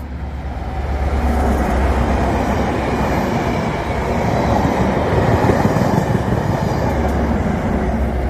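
A diesel test train top-and-tailed by HST power cars running through the station past the platform: steady loud engine drone and wheel-on-rail noise as the yellow measurement coaches and then the rear power car go by.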